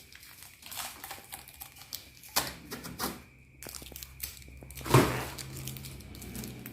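Irregular clicks, taps and knocks from handling the wooden mirror frame and its packaging, with one louder knock about five seconds in.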